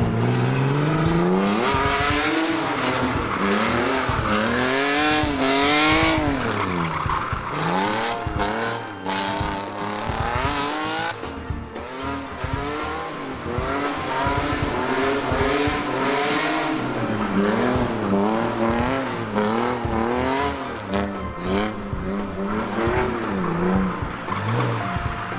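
Drift car engine revving hard, its pitch rising and falling over and over as the throttle is worked, with tyres squealing and skidding through the slides.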